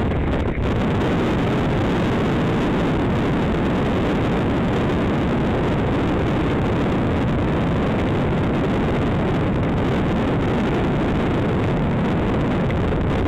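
Wind buffeting the microphone of a camera carried on a moving bicycle: a loud, steady low rush with no breaks.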